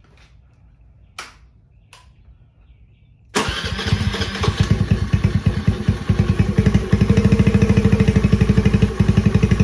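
Two short clicks, then about three seconds in a Honda Navi's single-cylinder four-stroke engine starts abruptly through a newly fitted Hot Lap aftermarket exhaust, with the silencer insert in. It revs briefly, then settles into a steady, evenly pulsing idle.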